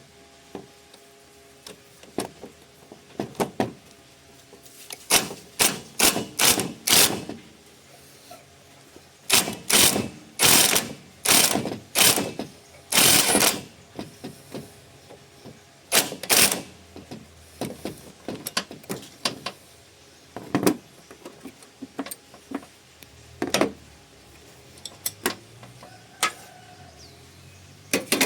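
Hand tools on metal while loosening the alternator: bursts of sharp clicks and knocks, several a second, in clusters separated by short pauses.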